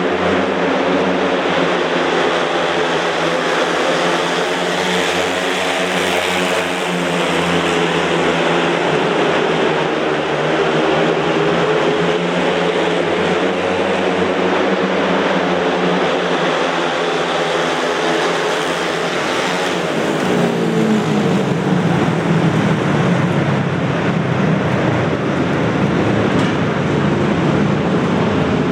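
Several 500cc single-cylinder speedway motorcycles racing flat out in a heat, their engines running loud and steady. About two-thirds of the way through, the engine notes shift and climb.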